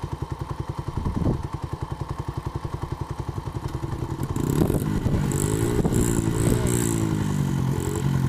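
Small Honda 70cc four-stroke dirt bike engine idling unevenly, then revved up about four seconds in, the revs rising and falling with the throttle. The rough idle is probably from water in the carburetor after riding through mud.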